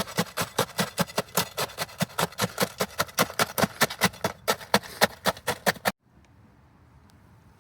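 Fast, even strokes of a hand tool being worked hard, about five a second, that stop abruptly about six seconds in.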